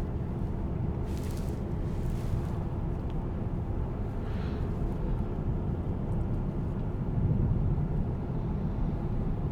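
Steady low road and tyre noise inside the cabin of a moving Tesla Cybertruck, with faint brief hisses about a second and two seconds in and a slight swell in the rumble near the end.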